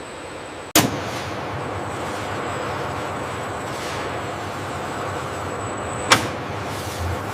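Two loud, sharp bangs about five seconds apart over a steady hissing noise with a faint high whine.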